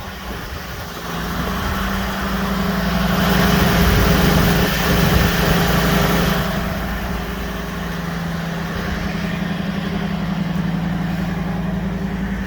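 A 2007 Hurricane motorhome's engine idling steadily after a cold start, with no ticking or bad sounds. It grows louder for a few seconds in the middle, then settles back.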